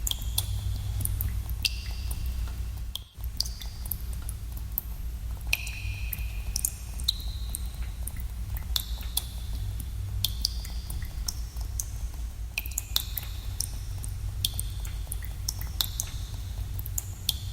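Water drops falling irregularly into pools in a cave, each a sharp plink with a short ringing tone, with echo, over a steady low rumble. There is a brief drop in level about three seconds in.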